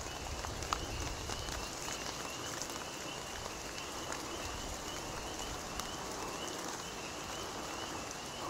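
Steady rain falling, with a faint high chirp repeating about twice a second in the background and one sharp tick about a second in.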